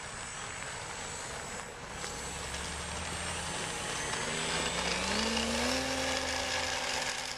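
RC model airplane's motor and propeller buzzing in flight. Its pitch climbs over a couple of seconds in the middle, then holds steady.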